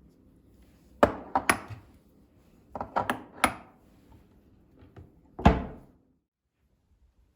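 A series of sharp knocks and thunks, about eight in irregular groups, the loudest a single knock near the end: household objects being handled and set down, or doors and drawers being shut.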